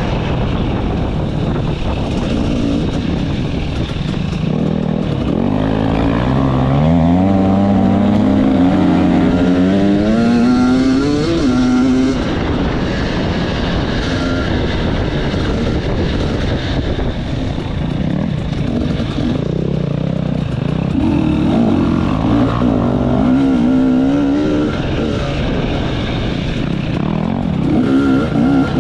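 Enduro motorcycle engine running hard, its pitch climbing again and again as the throttle is opened, with longer rises about a third of the way in and again past two-thirds.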